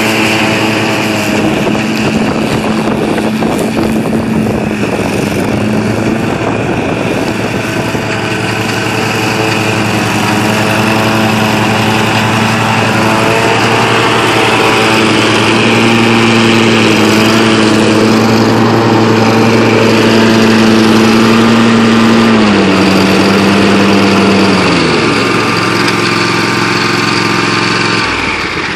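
Kawasaki FS600V V-twin engine of a Wright 36-inch stand-on commercial mower running steadily. Its speed drops in two steps in the last several seconds.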